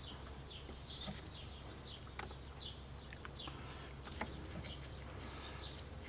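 Faint bird chirps, many short calls, with a few light clicks over a steady low hum.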